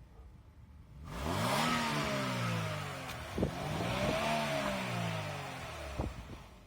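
Kia Ceed 1.6 engine revved twice from idle, each time the revs rising then sliding back down, during a hydrogen decarbonising clean. A couple of short sharp clicks fall in the middle and near the end.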